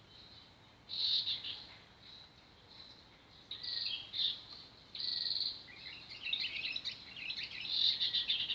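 Small birds chirping and trilling in short, high phrases, starting about a second in and growing busier, with quick falling notes near the end.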